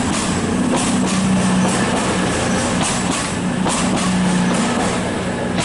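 Diesel train engine humming steadily at a low pitch, with a series of sharp clicks and clacks over it.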